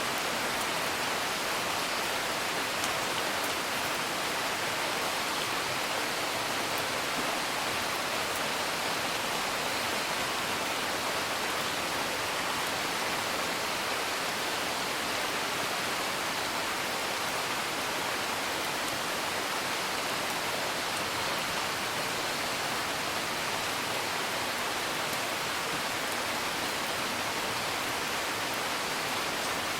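Steady rain heard from indoors, an even hiss, with a few faint crackles from a wood fire.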